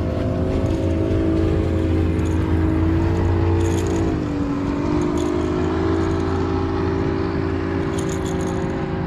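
Motorboat engine running steadily, its pitch dipping briefly about four seconds in and then settling again.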